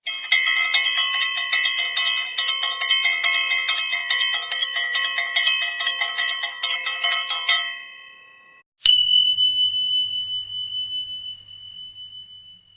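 Bell sound effects: a bell rung rapidly and continuously for about eight seconds, then stopping; after a short gap a single bell ding rings out with one high tone that slowly fades.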